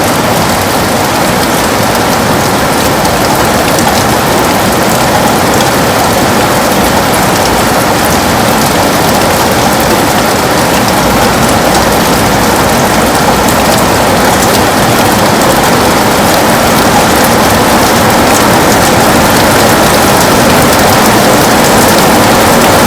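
Heavy rain on a window: a dense, steady hiss of many drops, growing slightly louder toward the end.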